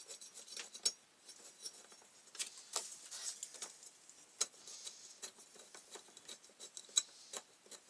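Irregular light metallic clicks, taps and scrapes of a 13mm ring spanner working the blade bolt loose on an electric lawnmower.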